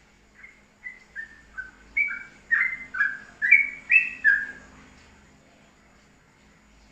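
A songbird singing a quick run of about a dozen short, clear whistled notes, each slurring downward and alternating between higher and lower pitches, growing louder partway through and stopping about two-thirds of the way in.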